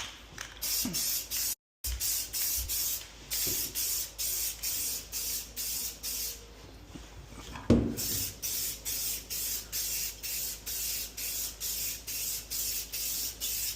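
Gloss coat being sprayed onto a repaired tub patch in short hissing bursts, about two a second, with a brief pause near the middle. A single sharp knock about eight seconds in.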